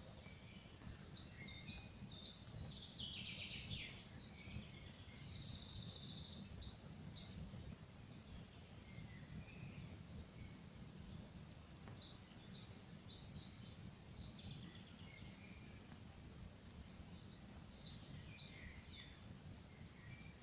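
Songbirds singing short phrases of quick, high chirps, in bursts every few seconds, over a steady low rumble.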